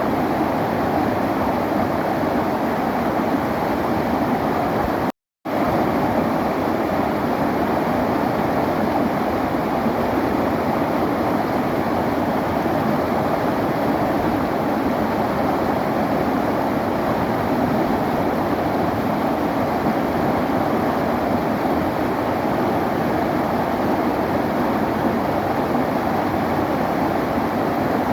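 River water flowing steadily over stones, an even rushing wash. The sound cuts out completely for a fraction of a second about five seconds in, then resumes unchanged.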